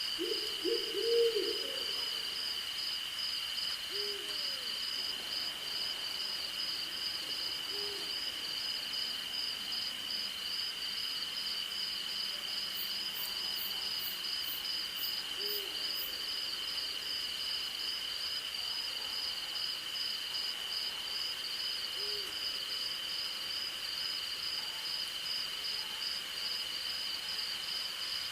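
Owl hooting at night, single short hoots every few seconds after a quick cluster of hoots at the start, over a steady chorus of crickets and other insects: one even, continuous trill and one fast-pulsing trill.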